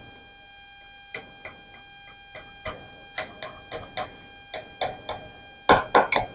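A knife clicking and tapping against the bottom of a glass baking pan while cutting through a pressed treat mixture: irregular light clicks, a few a second, with a louder cluster near the end.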